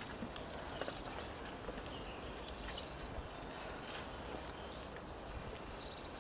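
A small songbird singing three short high phrases, each a few quick notes that drop to a lower run, over a steady low outdoor background rumble.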